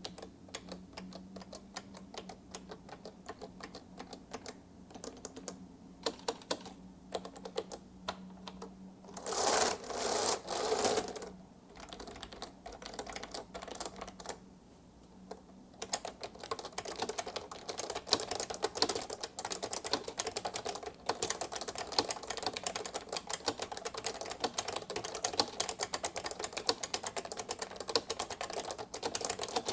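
Typing on a 1984 Maxi-Switch rubber-dome XT keyboard with short-travel, low-profile keys, which sounds like raindrops. It starts as scattered key presses, with a louder burst of noise about ten seconds in, then becomes fast, continuous typing from about sixteen seconds in.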